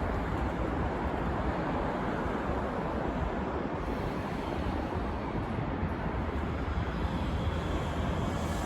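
Steady, even rumbling noise of a Hokuso Railway 7300 series electric train standing at the station platform with its onboard equipment running, with no motor whine yet.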